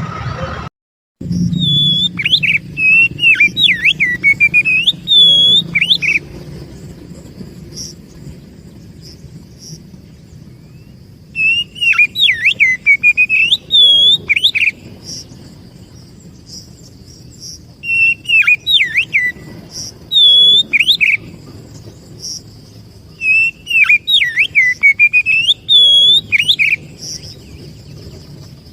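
Oriental magpie-robin (kacer) singing in four bouts of rapid, varied whistled phrases with sweeping pitch glides, separated by pauses of a few seconds, over steady low background noise. The sound cuts out briefly just after the start.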